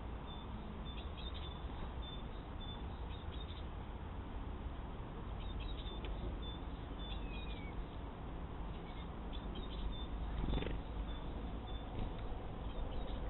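A cat meowing, recorded through a trail camera's narrow-band microphone over its steady hiss. Short, high chirps of small birds come and go, and there is a brief louder sound about ten and a half seconds in.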